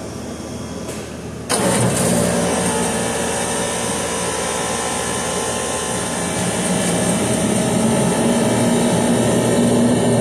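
Walk-in freezer refrigeration unit's compressor kicking on suddenly about a second and a half in, then running steadily over a low machine hum.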